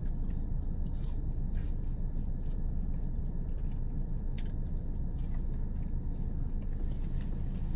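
Close-up biting and chewing of curly fries, with a few sharp crunchy clicks early on and again about four seconds in, over a steady low hum.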